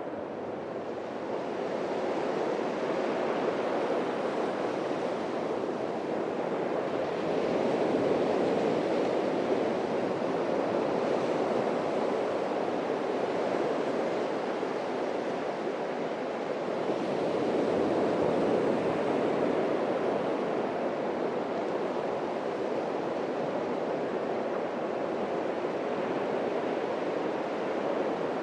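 Atlantic waves breaking and washing on a sandy beach: a continuous rush of surf that swells and eases slowly as sets come in, louder around 8 to 12 seconds in and again near 18 seconds.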